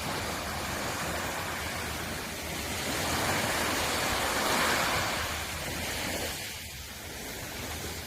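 Sea waves breaking on the shore. The wash of surf swells to its loudest about four to five seconds in, then draws back.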